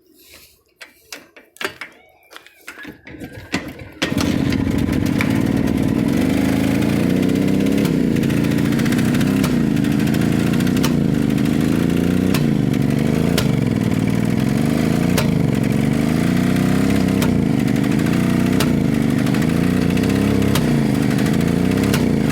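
Short knocks and clicks, then an engine starts about four seconds in and runs steadily. Its note swells and dips about once a second, and sharp gunshot-like pops ('pat pat') come every second or two, an abnormal popping whose cause the owner is asking about.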